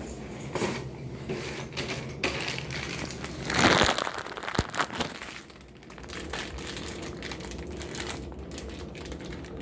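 Crinkling and rustling of handled plastic packaging, with light clicks of small parts as the faucet's aerator and strainer are handled. The loudest crinkle comes about three and a half seconds in.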